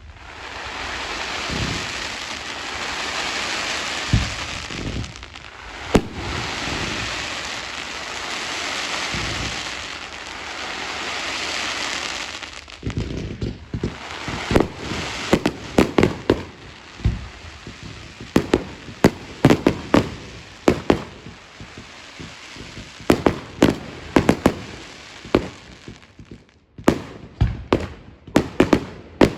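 Fireworks display: about twelve seconds of a loud, continuous crackling hiss with a few thumps, then a rapid string of sharp bangs.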